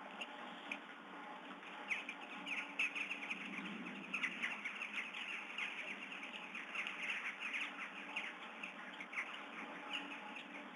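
Many birds chirping and calling in quick short notes, thickening into a busy chatter about two seconds in, over a faint steady hum.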